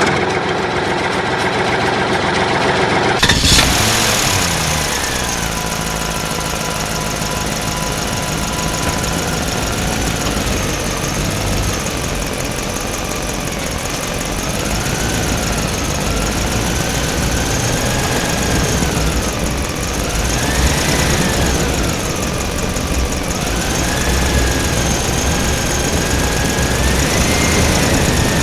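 Small motor of a DIY mini tractor running steadily with an idling, knocking rumble. After a sudden change about three seconds in, a higher whine rises and falls in pitch as it runs.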